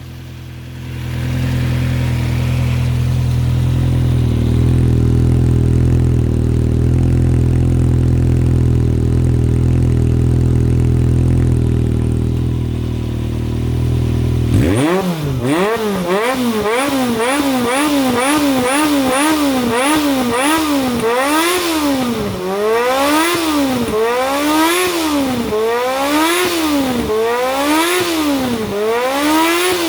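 Honda CBX400F inline-four running through an RPM 67 exhaust fitted with its optional baffle: a steady, deep idle for the first half, then, about halfway in, repeated throttle blips roughly once a second, the pitch rising and falling sharply with each blip.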